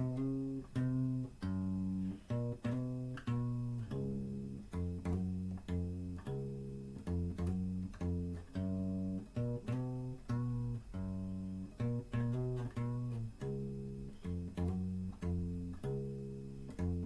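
Instrumental break of a song: a plucked string instrument, guitar, playing a steady run of low notes, about two or three a second.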